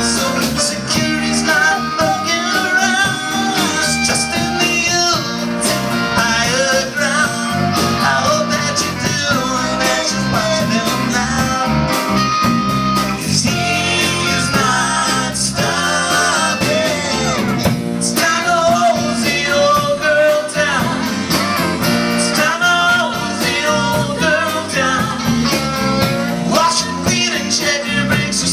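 A live rock-and-roll band playing with guitar, and singing over it.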